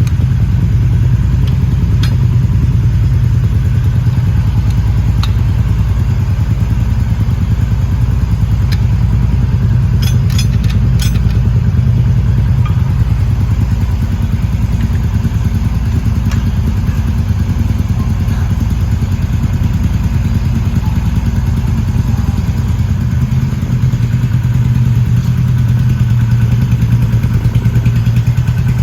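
Motorcycle engine idling steadily, with a few sharp clicks over it, three in quick succession about ten seconds in.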